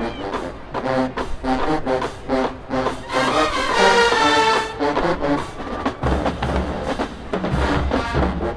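HBCU marching band playing: staccato brass figures over drums, swelling to a loud held brass chord about four seconds in, then a driving low drum beat with bass drums and sousaphones from about six seconds on.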